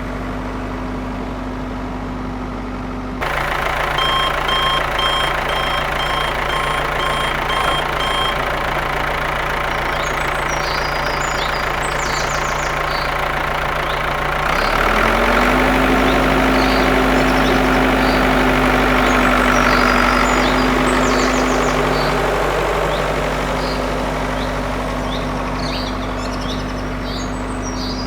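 Steady machine running noise over a low hum. It gets louder a few seconds in, with a series of about eight short beeps like a reversing alarm. Birds chirp now and then, and about halfway the hum glides up in pitch and the running gets a little louder.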